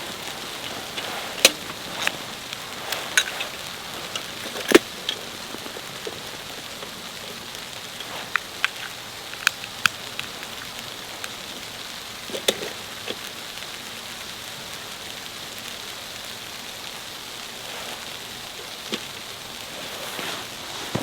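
Steady hiss of falling precipitation in a snowstorm, with about a dozen scattered sharp ticks as it strikes a hard surface, most of them in the first half.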